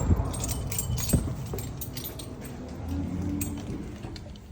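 A bunch of keys jangling and clinking, with a single knock about a second in.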